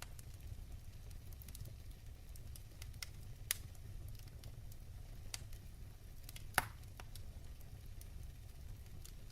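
Wood fire burning in a fireplace, a low steady rumble of flames with scattered sharp crackles and pops. The loudest pops come about three and a half seconds in and again about two thirds of the way through.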